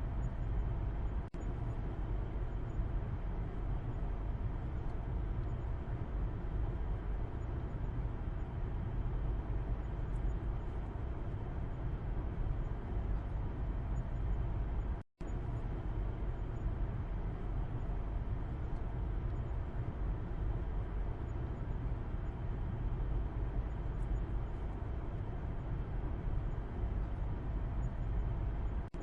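Steady road and engine rumble heard from the back seat inside a moving car's cabin, deepest in the low end with a soft hiss above. The sound drops out completely for an instant about halfway through.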